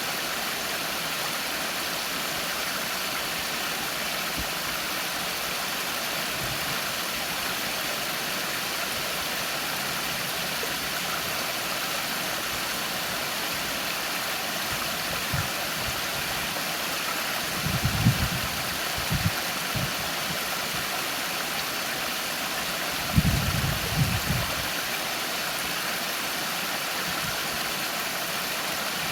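Storm drain outfall pouring as a small waterfall: a steady, even rush of falling water. Brief low thumps break in about 18 seconds in and again around 23 to 24 seconds in.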